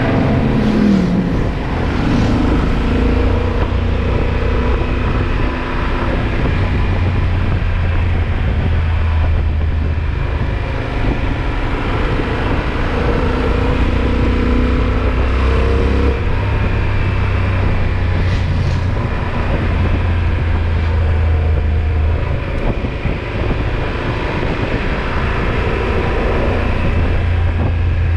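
Yamaha XT1200Z Super Ténéré's parallel-twin engine running at road speed, with a steady rush of wind and road noise. The engine note shifts a few times as the throttle changes.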